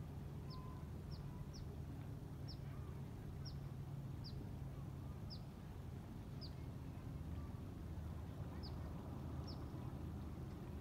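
A bird calling repeatedly with short, high, downward-sliding chirps, about ten in all at uneven spacing, over a steady low hum.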